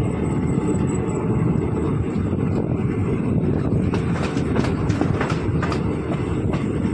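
Passenger train running at speed, heard from an open coach doorway: a steady rumble of wheels on rail. From about four seconds in comes a run of sharp clicks as the wheels cross rail joints and points.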